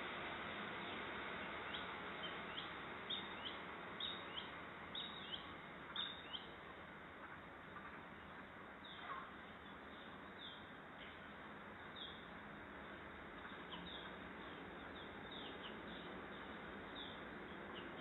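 Birds chirping: a quick run of short, high, downward-sweeping chirps over the first several seconds, then scattered single chirps, over a steady background hiss.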